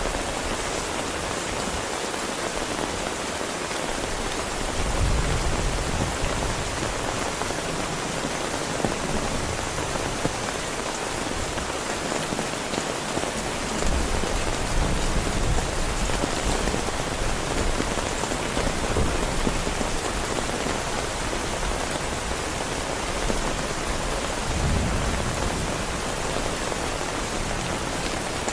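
Heavy rain falling steadily, with low rumbles of thunder swelling up about five seconds in, again around fourteen seconds in, and near the end.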